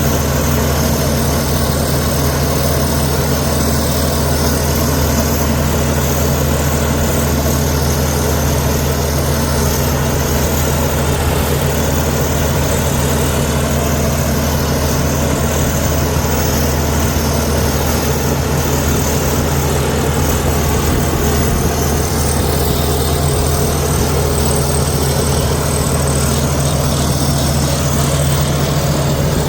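Heavy diesel engine of earthmoving machinery running at a steady, unchanging speed.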